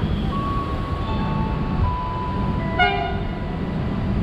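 A train passing through a station: a heavy, steady low rumble with a thin, high, steady squeal over it. About three seconds in comes one short, sharp horn toot.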